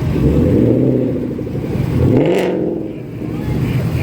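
A car's engine revving and accelerating past, its note rising sharply about two seconds in, then falling away briefly before traffic noise builds again.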